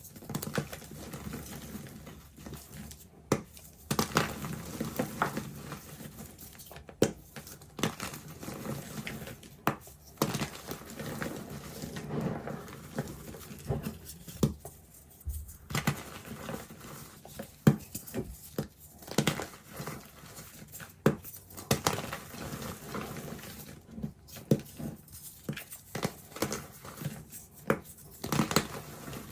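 Reformed gym chalk being crushed and crumbled, with irregular sharp crunches over a soft, crumbly grinding.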